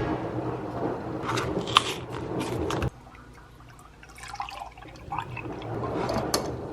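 Water running or pouring, cut off abruptly about three seconds in, then quieter scattered light clinks and splashes.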